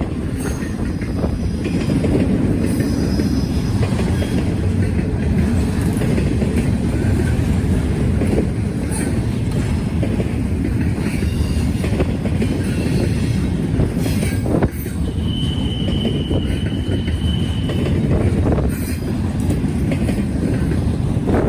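Norfolk Southern freight train's cars rolling past, a steady rumble of steel wheels on rail with brief high wheel squeals and one longer held squeal about two-thirds of the way through.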